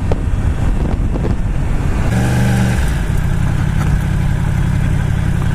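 Yamaha R1 motorcycle engine running under wind rush on the rider's microphone; about two seconds in, a steady engine note comes through clearly and holds to the end.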